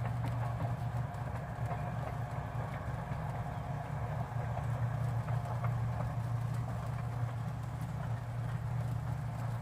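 A train's steady low hum, with faint irregular clicks and taps over it.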